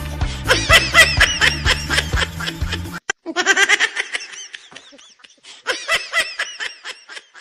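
High-pitched giggling laughter sound effect in quick repeated bursts, over a background music track with a heavy bass line. The music cuts off about three seconds in, and two more bursts of giggling follow.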